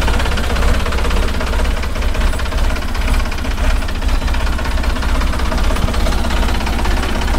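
Sonalika RX 50 tractor's three-cylinder diesel engine running steadily.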